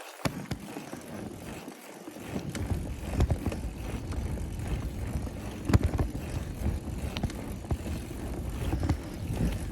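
A bicycle ride heard from the rider: wind buffeting the microphone as a low rumble from about two seconds in, over steady tyre and riding noise, with scattered short clicks.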